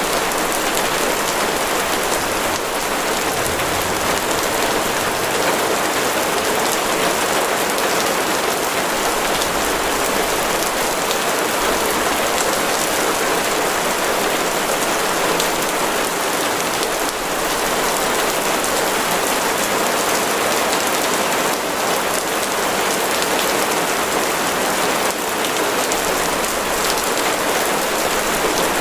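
Steady heavy rain falling on a surface, a dense even hiss with no break.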